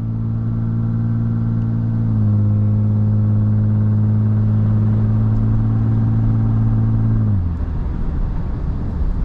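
Lexus IS250's V6 engine running at a steady cruise, a strong low drone that steps up slightly about two seconds in and drops away about seven seconds in, leaving road and tyre rumble.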